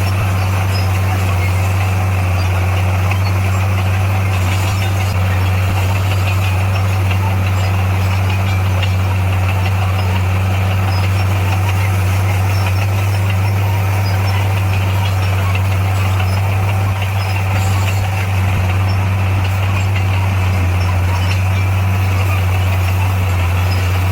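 Bulldozer's diesel engine running, a steady low drone that holds without change.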